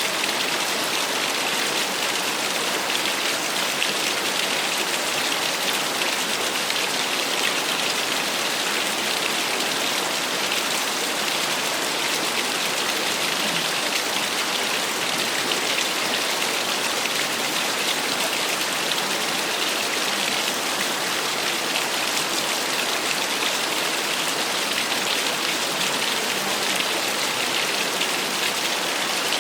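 Small waterfall: water splashing and falling steadily, an even hiss with a bright, spattering edge and no change in level.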